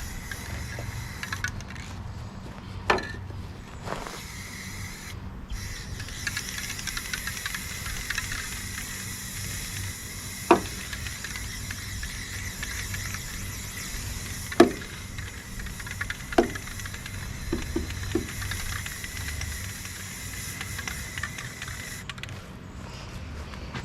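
Aerosol spray paint can hissing in long sprays, broken off briefly a couple of times and stopping near the end. A few sharp clicks stand out over the hiss.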